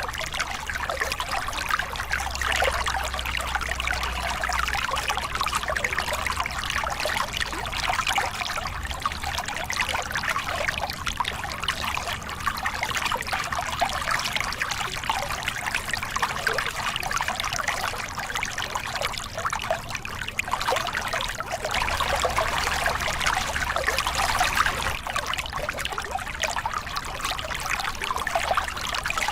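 Small river cascade: water pouring and splashing steadily over rocks, a continuous rushing with slight swells in loudness.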